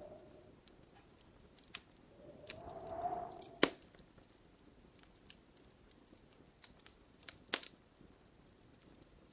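Wood fire crackling in a fireplace: scattered small clicks, with a soft whistling hiss that swells and fades about two to three and a half seconds in and ends in a sharp pop. A second sharp pop comes about three-quarters of the way through.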